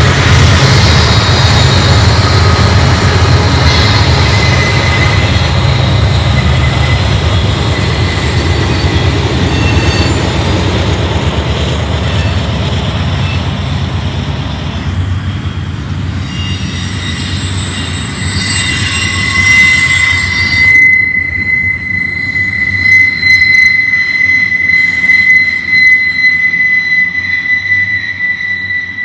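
BNSF double-stack intermodal train passing close by: the low rumble of its diesel locomotives fades over the first half. Then, from a little past halfway, the stack cars roll past with a steady high-pitched wheel-flange squeal on the curve.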